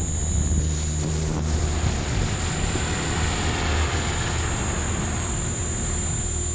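Synergy 516 electric RC helicopter in flight: a steady high motor whine over the rush of the rotor blades, with wind noise on the microphone.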